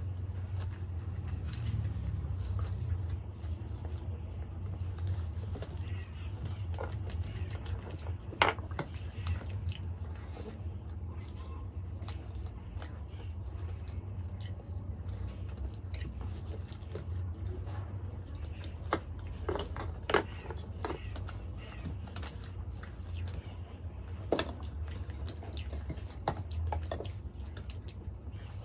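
Close-miked eating of methi paratha and potato curry by hand: chewing and mouth sounds over a steady low hum, with scattered small clicks and a few sharper ones, the loudest about 8, 20 and 24 seconds in.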